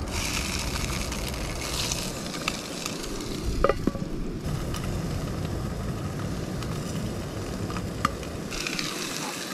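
Trout fillets, onions and mushrooms frying in a pan on a backpacking gas canister stove: steady sizzling. The sizzle goes duller about four seconds in and brightens again near the end, with two light clicks along the way.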